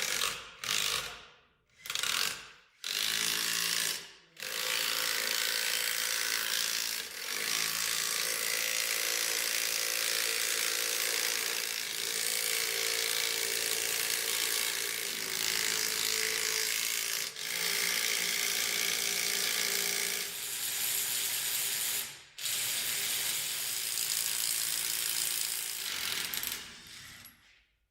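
A mechanical workshop tool running, with a few short bursts at first and then long stretches of near-continuous running with brief stops.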